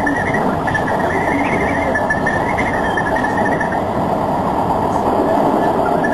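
Keisei electric train running on the rails, heard from inside the car: a steady rumble of wheels on track with a wavering high whine over it, as the train runs into a station.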